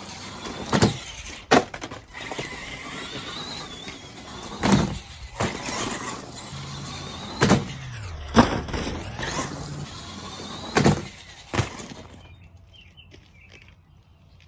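Electric RC monster truck (Axial SMT10 Grave Digger) running on wet gravel, its motor whining with a wavering pitch over a rough grinding noise. About eight sharp knocks and thumps come through it. The activity stops about twelve seconds in.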